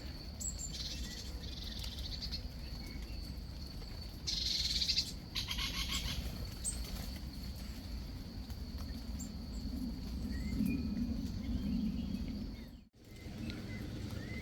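Birds giving two rapid, chattering bursts of calls over a steady low outdoor rumble; the sound cuts out briefly near the end.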